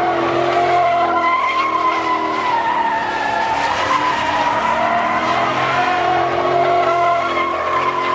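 A car doing a burnout: the tyres squeal in a long, wavering screech over the engine held at high revs.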